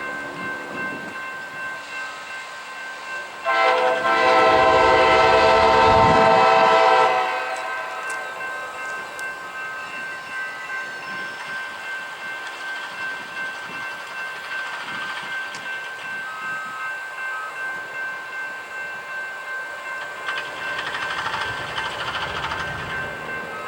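Freight locomotive horn sounding one long multi-note blast lasting about four seconds, starting about three seconds in, then the train running past with a steady rumble of wheels on rail, rising again a little near the end.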